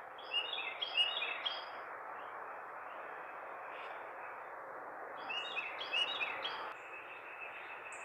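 A bird chirping in two short bouts, one near the start and one about five seconds in. Each is a quick run of four or five falling notes lasting about a second and a half. Steady outdoor background noise runs underneath.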